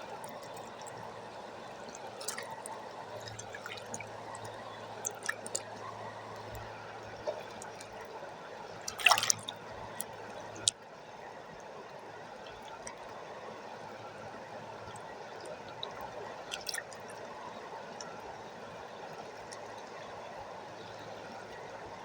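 Water running steadily, with scattered drips and small splashes and one louder sudden sound about nine seconds in.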